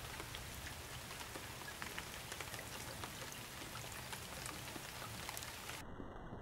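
Heavy rain falling steadily, with many separate drop hits heard on a surface. The high hiss of the rain cuts off abruptly near the end.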